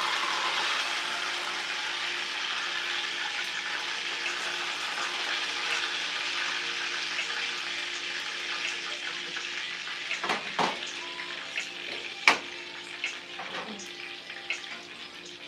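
Chicken sizzling as it fries in a pan, nearly cooked through, the sizzle slowly dying down. Near the end come a few sharp clicks of tongs against the pan, the loudest about twelve seconds in.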